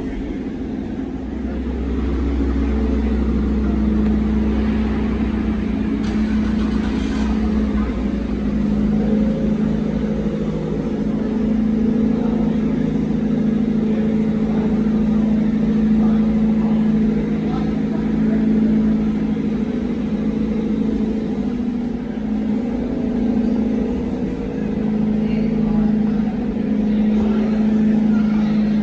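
Car engine running with a steady drone that wavers slightly, with a heavier low rumble for the first few seconds.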